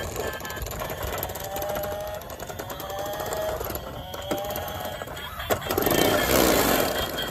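A small electric motor whirring with a fast, fine clicking, growing louder and rougher about six seconds in.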